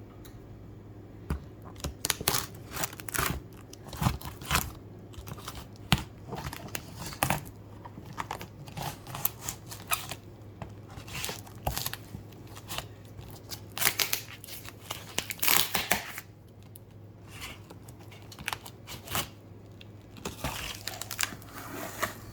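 Speaker packaging being torn open and crinkled during an unboxing: irregular tearing, rustling and crackling throughout, over a low steady hum.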